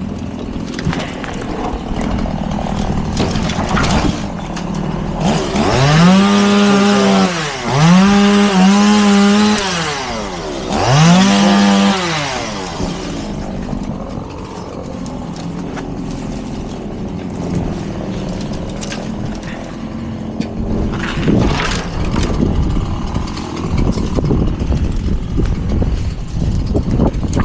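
Two-stroke chainsaw revved to full throttle three times, each burst rising in pitch, holding and dropping back, with a steady low engine rumble the rest of the time.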